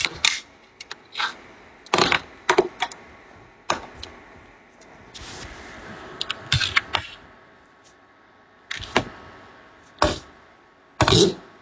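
A metal utensil knocking and scraping in a cooking pot as the pork trotters are prodded and stirred, in scattered clicks and clinks, with a short hiss about five seconds in.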